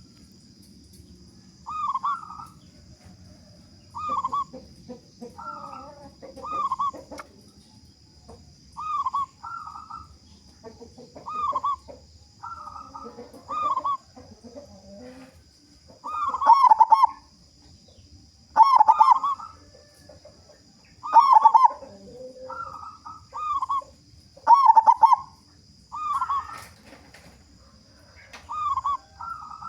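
Zebra dove cooing: the same short rolling, bubbling coo phrase repeated about every two seconds, louder from about halfway through.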